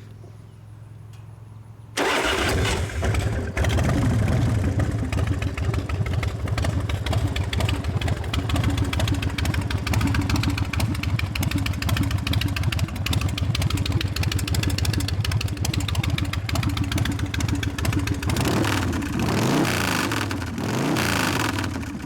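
American Ironhorse chopper's S&S V-twin engine starting up about two seconds in, then idling through Vance & Hines pipes, revved up and back down a couple of times near the end.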